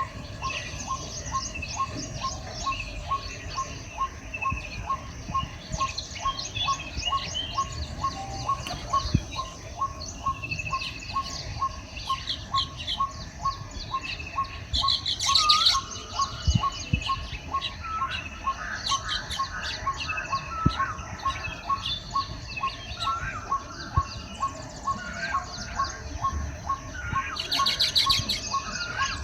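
A flock of baya weavers chirping and chattering continuously, with louder buzzy rattling bursts about halfway through and near the end. Under it runs a steady ticking call, about four beats a second.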